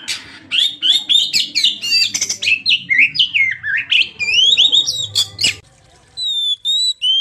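Oriental magpie-robin (kacer) singing a fast, varied song of rising and falling whistles mixed with harsh chattering notes. After a short pause a little under six seconds in, it resumes with cleaner, spaced whistled phrases.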